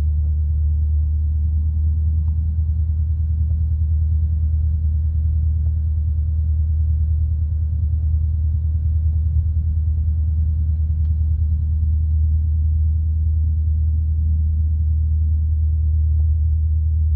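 Light aircraft's piston engine and propeller droning steadily, heard muffled through the cockpit headset intercom.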